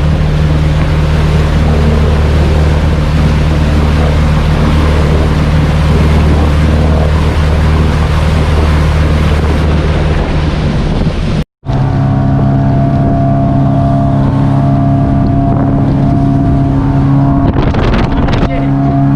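Motorboat engine running steadily under way, with wind on the microphone. About two-thirds of the way through there is an abrupt cut, after which the engine runs with a different, higher-pitched hum.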